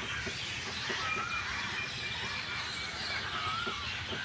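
Many birds chirping and calling together, a dense overlapping chorus of short chirps and brief whistled glides over steady outdoor background noise.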